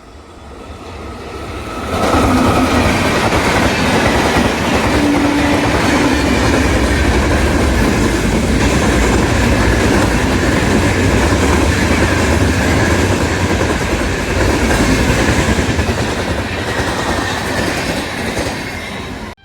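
Indian Railways train passing at speed, its wheels clattering on the rails. The sound builds, then jumps to full loudness about two seconds in as the train arrives. It stays loud and steady until it cuts off suddenly at the end.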